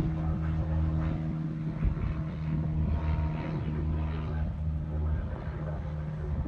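An engine running steadily: a low hum at one constant pitch over a rough low rumble, easing slightly towards the end.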